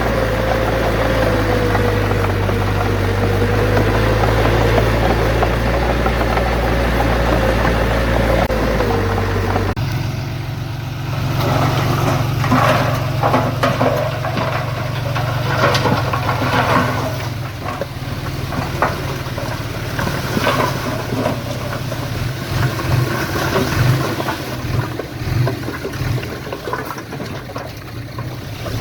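Diesel engine of heavy earthmoving equipment running steadily with a wavering whine. About ten seconds in the sound changes abruptly to a different engine note with repeated clattering and scraping, typical of stone being pushed or dumped.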